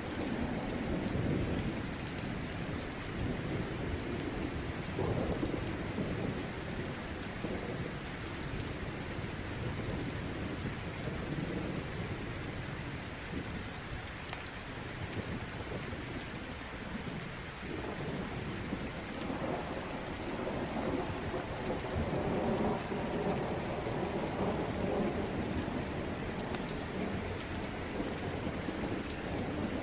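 Steady rain falling, with low rolling thunder that swells and fades several times, longest and strongest in the second half.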